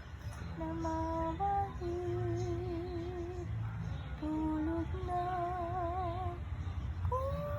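A woman humming a slow, lullaby-like tune in a string of held notes, each with a gentle waver in pitch, as if lulling a dog to sleep.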